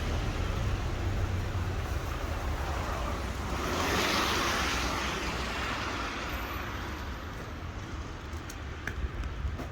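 A car passing on a wet street: the hiss of its tyres swells about four seconds in and fades away, over a steady rumble of traffic.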